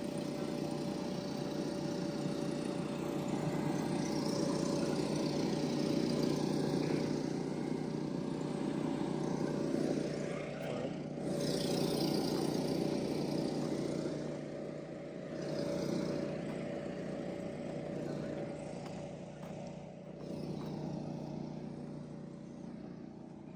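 Blower fan running steadily, inflating a freestyle motocross landing airbag: a constant drone with a steady hum that swells and eases a few times.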